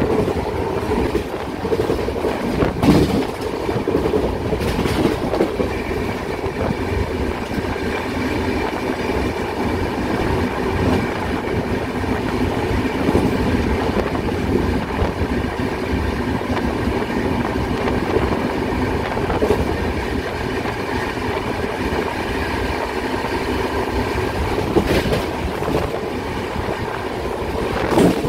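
Passenger train running steadily, heard at an open coach door: wheels rumbling on the rails, with a few sharp clacks over rail joints and points.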